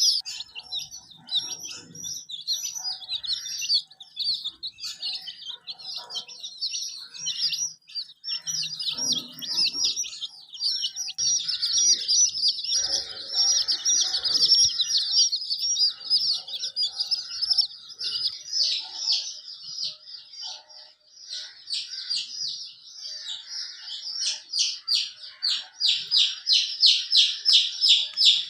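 Young chicks peeping continuously, many short high calls overlapping. Near the end the peeps turn regular and quick, about four a second.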